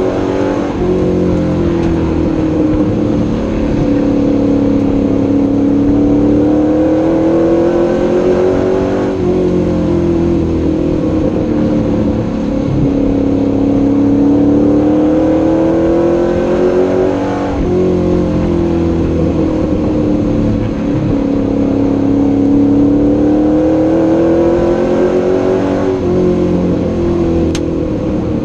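Race truck's engine heard from inside the cab at racing speed, its pitch climbing steadily and then falling suddenly about every eight and a half seconds: the driver accelerating down each straight and lifting for each turn, lap after lap on a short oval.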